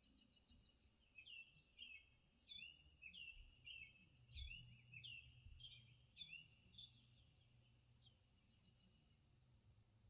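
Faint bird calls played from a TV: a string of short, high chirps, several each second, some sweeping up or down, that stop about eight seconds in.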